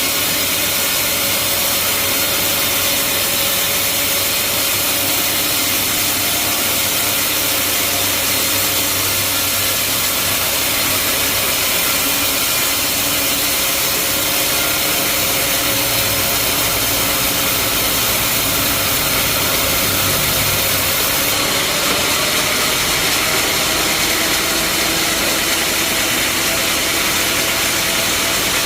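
Bandsaw sawmill running with a steady mechanical hum and noise, its pitch shifting slightly about two-thirds of the way through.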